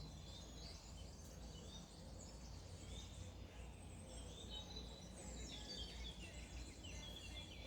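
Several small birds chirping and twittering, their calls overlapping throughout, over a faint steady low rumble.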